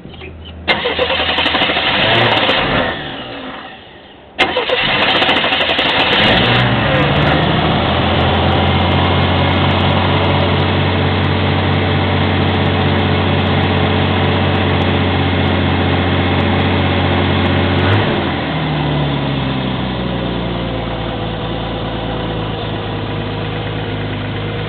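1975 Oldsmobile Omega engine cold start: a short burst of cranking, then a second crank about four seconds in that catches into a steady, high fast idle. About eighteen seconds in the engine speed drops and it settles to a lower, steady idle.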